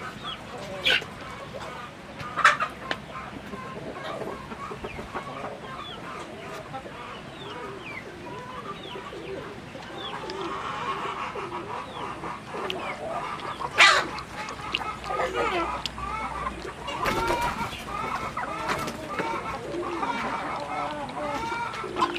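A flock of chickens clucking and calling, busier in the second half. A few sharp knocks stand out, the loudest about fourteen seconds in.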